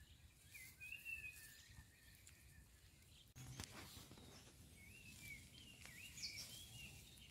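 Near silence, with faint bird chirps: short calls that rise and fall in pitch, a few about a second in and more between about five and six and a half seconds in. A faint click comes about three and a half seconds in.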